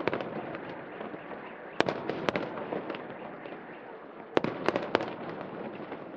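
Aerial fireworks going off: two sharp bangs about two seconds in and a quick run of three more near the end, each trailed by a short crackle, over steady background noise.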